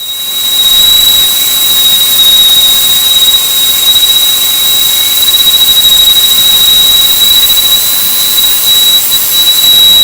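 Random orbital sander with 60-grit paper running steadily on a rusty cast-iron table saw top: a loud, steady high whine over a rough sanding hiss.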